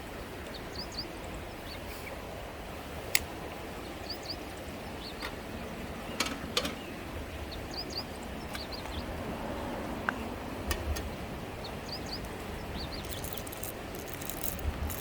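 Small birds chirping in short repeated calls over a steady rush of background noise, with a few sharp snaps scattered through. Near the end a quick run of dry, crunchy clicks starts.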